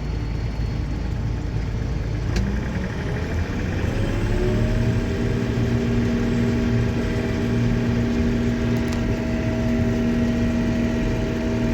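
Combine harvester running, with a click about two and a half seconds in, then a whine that rises for about two seconds as the machine spools up and settles into a steady hum.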